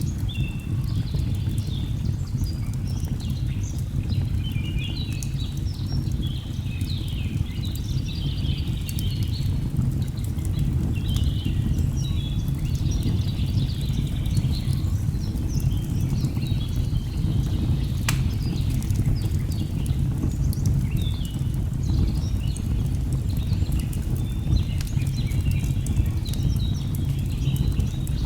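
Layered nature ambience: a waterfall's steady, deep rush of falling water under many birds chirping and trilling throughout, with the small sharp crackles of a burning log fire.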